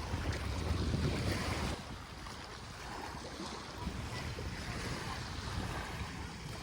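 Wind buffeting the microphone over the wash of small waves at the shoreline. The wind gusts harder for the first couple of seconds, then eases to a steadier hiss.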